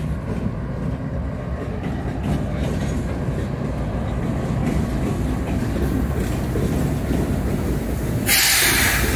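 Freight train's Union Pacific diesel locomotives rumbling past at close range, engines and wheels running steadily with some clickety-clack over the rail joints. Near the end a sudden loud hiss lasts just under a second.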